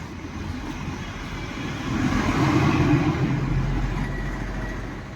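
A motor vehicle passing by on the road: its engine and tyre noise swells to a peak two to three seconds in, then fades away.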